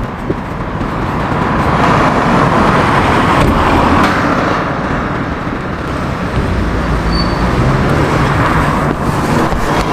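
Road traffic noise: a steady rush of vehicle and tyre noise that swells and fades a few times as vehicles pass.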